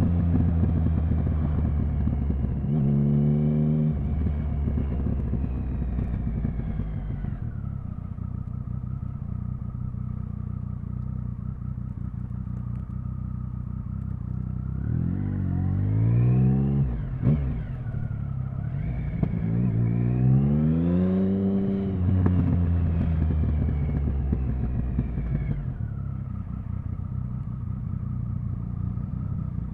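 Triumph Speed Triple 1050's inline three-cylinder engine running at low revs, with a short rev a few seconds in and two rising pulls through the gears around the middle, separated by a brief sharp snap, before settling back to a steady low note.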